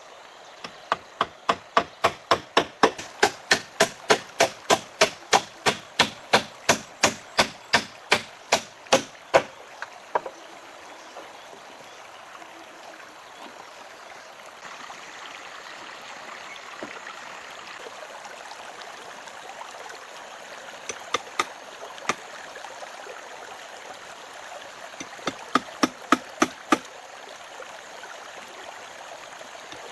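Rapid, even chopping strokes, about three a second, stopping after about nine seconds. Flowing water then runs steadily, broken by two short runs of strokes.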